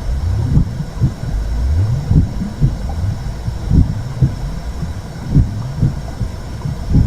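Womb sound for soothing a baby: a muffled heartbeat in double thumps about every one and a half seconds, over a steady low whooshing rumble.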